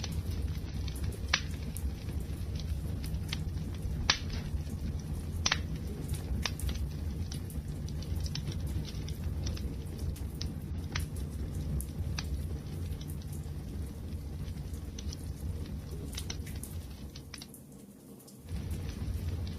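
Wood fire burning: a steady low rumble of flames with sharp, irregular pops and crackles. Near the end the rumble briefly fades down and comes back.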